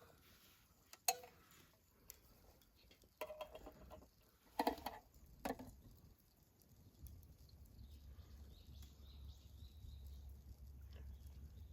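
A few scattered sharp knocks and clatters, several grouped around the middle, then a faint low rumble from about seven seconds in.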